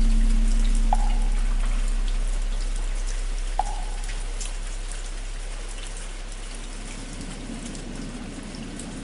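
Steady rain, with the deep hum of a large bell struck just before, fading slowly. Two light knocks sound about a second and three and a half seconds in.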